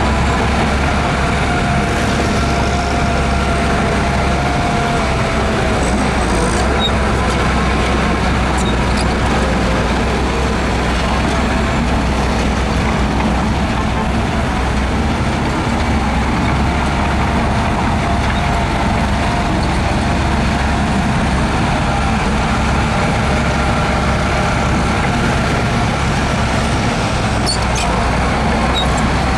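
Diesel engine of heavy earthmoving machinery running steadily under work, a deep drone throughout. A faint whine comes through in the first few seconds, and a few sharp ticks sound near the end.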